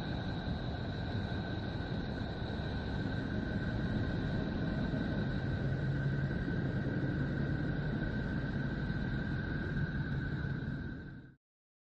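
A planetary "space sound" recording: a steady low rumbling drone with two steady high tones held above it, which cuts off suddenly near the end.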